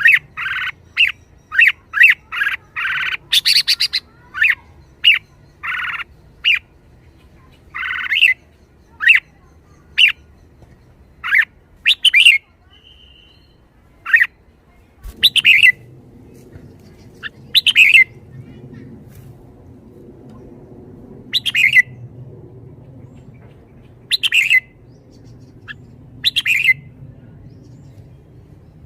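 Red-whiskered bulbul calling: a quick run of short, sharp chirps, about two a second, for the first several seconds, then fuller warbled phrases every two to three seconds.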